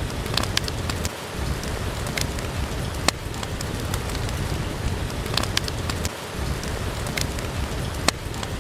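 Steady rain with a low rumble, with a wood fire crackling over it: scattered sharp pops, a few of them louder, every second or so.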